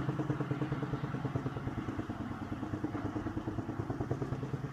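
A wire stretched down from a high-rise roof fluttering in the wind outside the window, making a rapid, even chopping pulse over a steady low hum, like a helicopter.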